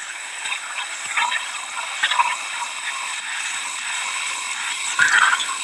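A steady rush of hurricane rain and wind, with faint voices in the background.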